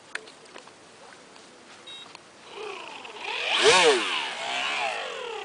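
Small radio-controlled speedboat's motor buzzing as the boat runs past close by on the water. It swells to its loudest about two-thirds of the way through, then fades away.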